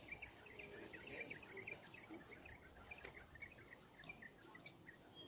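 Faint outdoor ambience: distant birds chirping in many short, scattered calls over a soft hiss.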